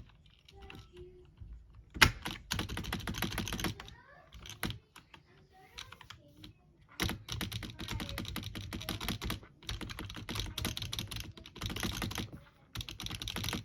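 Computer keyboard spacebar, its parts freshly greased and the keycap refitted, pressed rapidly over and over and clacking. One sharp loud click about two seconds in, a short run of rapid presses, then a longer run of fast presses in the second half.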